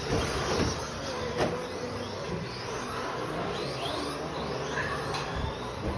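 RC stadium trucks racing on the track: their motors whine, rising and falling in pitch as they speed up and slow, over a steady noise.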